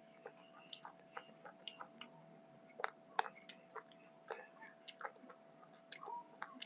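Close-up wet chewing and mouth smacks of someone eating chicken masala fry and rice, in short irregular clicks, with a faint steady hum underneath.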